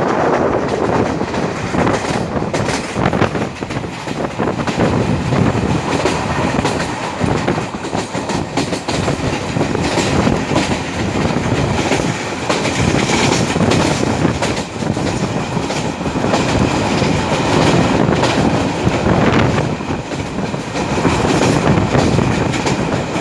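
Passenger train running along the track, its wheels clattering steadily over the rail joints with a continuous rumble.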